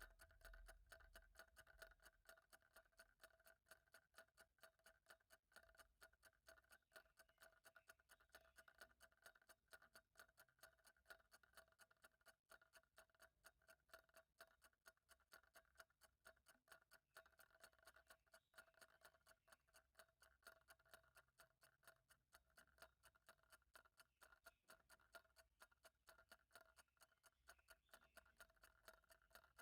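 Faint, steady ticking of a clock, evenly spaced several times a second.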